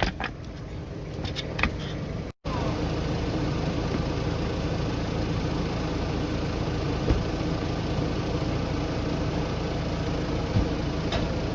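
Four-wheel-drive vehicle's engine running steadily, cutting out for an instant about two seconds in.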